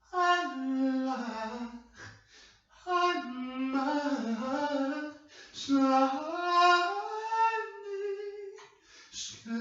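A woman singing alone without accompaniment, in three phrases of long held notes that slide between pitches, with short breaths between them.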